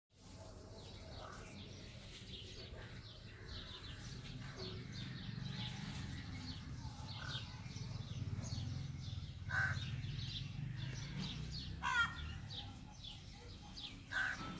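Wild birds calling: many small birds chirping in quick, high notes, with three louder, harsher calls in the second half. A steady low rumble runs underneath.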